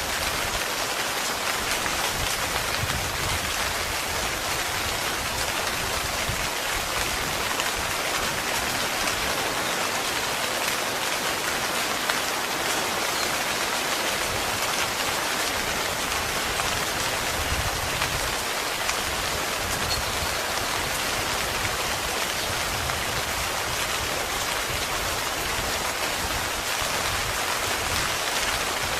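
Steady heavy rain drumming on a tent.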